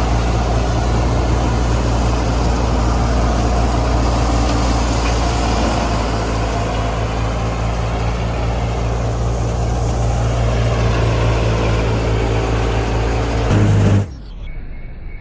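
Clayson 8080 combine harvester's engine and machinery running steadily with a dense mechanical din. About 14 seconds in the sound cuts off suddenly to a quieter, duller engine sound.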